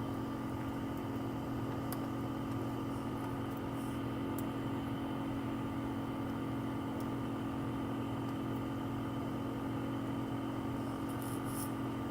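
Steady electric motor hum of an LCD separator machine's vacuum pump, which holds the screen down on the hot plate, with a few faint light ticks.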